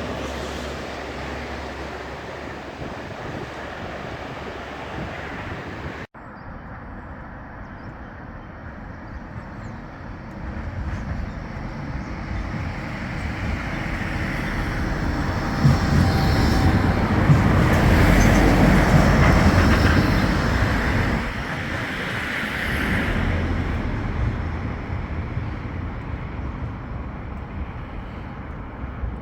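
Bombardier Flexity 2 tram running past. Its sound builds to a peak about two-thirds of the way through, then fades. A sudden cut about six seconds in switches to another stretch of tram sound.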